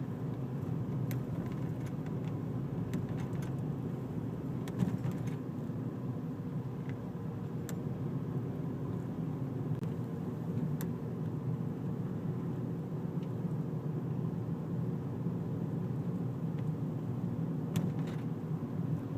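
Steady low drone of a Honda car driving slowly, heard from inside the cabin, with a few faint clicks scattered through it.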